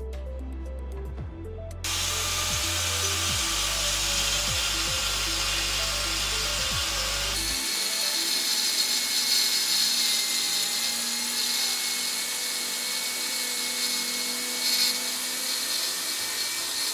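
Angle grinder with a cutting disc cutting brick: a harsh, gritty grinding noise over a steady motor whine, starting suddenly about two seconds in and cutting off abruptly at the end. Background music plays underneath for the first part.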